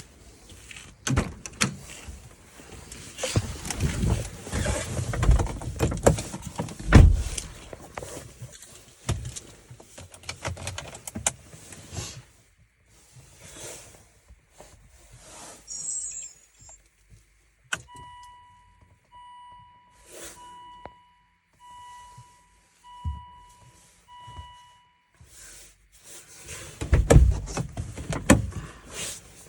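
Volvo S80's dashboard warning chime beeping seven times, about once a second, with clattering, rustling and knocks around it as the car is got ready for a cold start.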